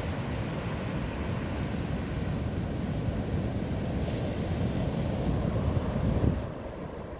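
Ocean surf breaking on a beach, with wind buffeting the microphone. The rush builds and then drops off abruptly about six seconds in.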